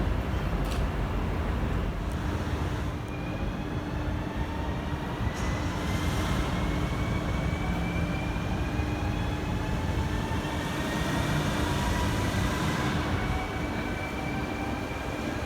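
Electric train pulling away from a platform, its traction motors whining in several tones that rise slowly in pitch as it gathers speed, over a steady hum and a low rumble.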